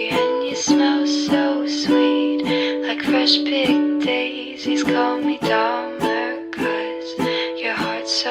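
Ukulele strummed in a steady rhythm, chords ringing between the strokes, with no singing.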